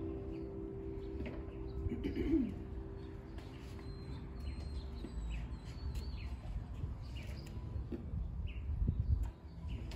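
Birds chirping, with a dove cooing about two seconds in, while the last held note of the hymn music fades out over the first five seconds.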